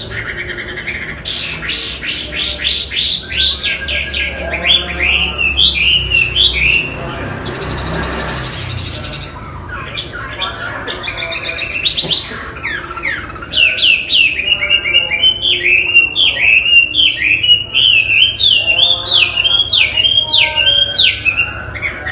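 Chinese hwamei (wambi) singing a loud, varied song of quickly repeated, sweeping whistled notes in phrases. A short rasping noise comes about a third of the way in.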